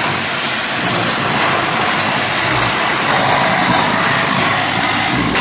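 Steady hiss of a high-pressure water jet spraying, as in washing a mini tractor.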